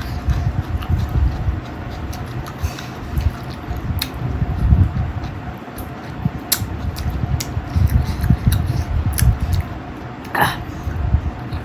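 Close-miked chewing of a person eating a chicken and rice meal: irregular wet chewing with many sharp mouth clicks and smacks, and one longer noisy mouth sound near the end.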